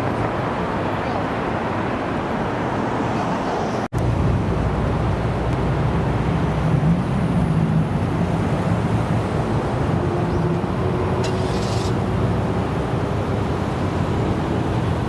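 American car engine running with a steady low rumble, swelling slightly about seven seconds in; the sound breaks off for an instant about four seconds in.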